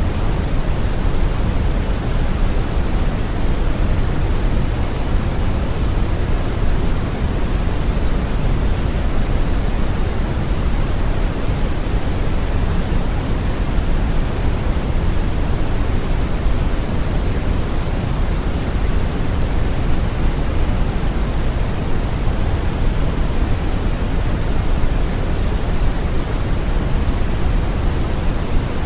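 Steady brown noise: an even, deep hiss with most of its weight in the low end, unchanging throughout.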